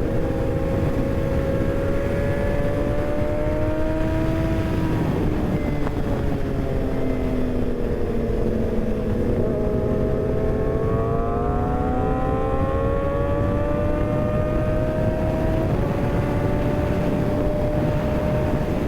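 Kawasaki ZX-6R's inline-four engine under way on a winding road: revs climb for about five seconds, fall away until about nine seconds in, then climb again and level off near the end. Heavy wind rush on the microphone.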